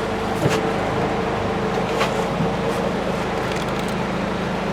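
Isuzu FVZ34 dump truck's six-cylinder diesel engine idling steadily just after a start, with a few light clicks.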